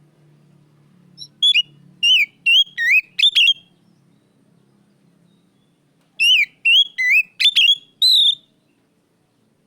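Oriental magpie-robin (kacer) singing: two loud phrases of clear whistled notes, each a quick run of five or six down-slurred whistles, with a pause of a couple of seconds between them.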